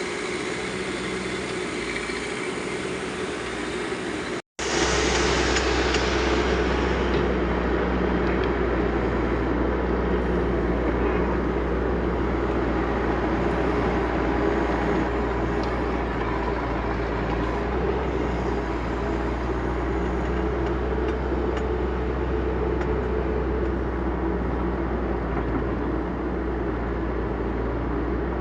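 Backhoe loader's diesel engine running steadily as the machine digs. About four and a half seconds in the sound drops out for a moment and comes back louder and deeper.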